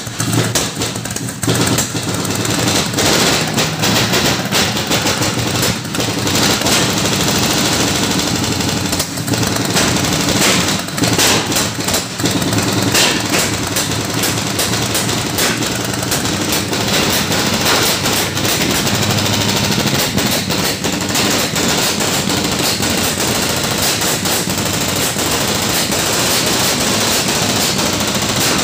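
Modified Hindustan Contessa's petrol engine running loud and rough with an open carburettor, a fast, uneven stream of pops and crackles over the engine note. Smoke comes off the engine as it runs.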